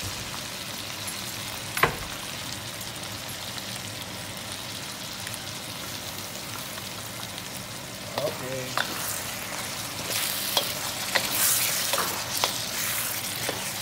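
Chicken and sliced carrots sizzling steadily in a wok just seasoned with fish sauce. A wooden spatula knocks once against the pan about two seconds in, and stirring clacks and scrapes come more often, with louder sizzling, in the last few seconds.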